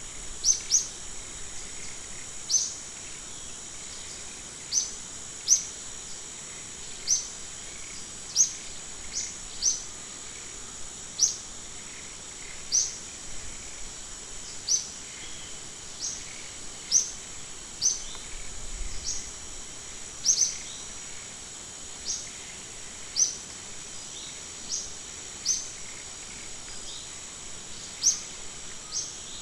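A steady high-pitched insect drone, with a bird giving a short, high chirp over it about once every one to two seconds.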